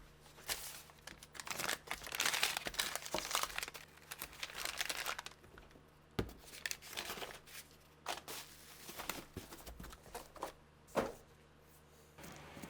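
Crinkling and rustling from something being handled, in irregular bursts that are busiest in the first half, with a few sharp clicks, the loudest about six and eleven seconds in.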